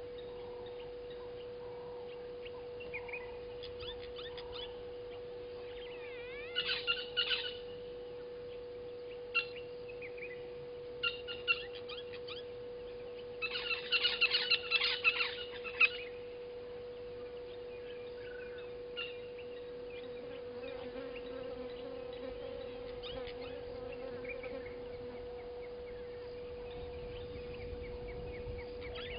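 Wild birds chirping and calling in scattered short bursts, busiest and loudest in a flurry about halfway through, over a steady hum.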